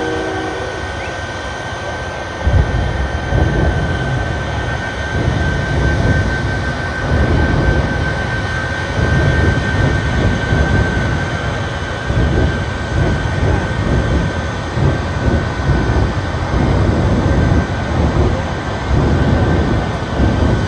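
The Shockwave jet truck's three Westinghouse J34 turbojets running, with a steady high turbine whine. About two and a half seconds in, a loud, rough exhaust rumble comes in and keeps surging and easing.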